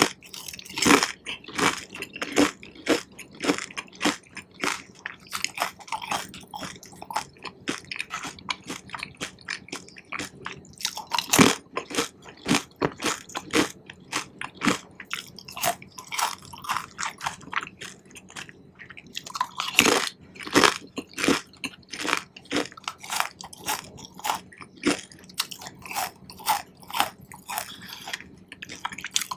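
Close-miked chewing of Korean cheese corn, sweet corn kernels in melted cheese: a steady run of wet, sticky mouth clicks and pops, a couple a second, with louder clusters of bites about a third and two-thirds of the way through.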